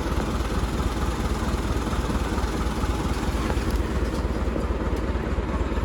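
Heavy diesel machinery engine running steadily with a low rumble.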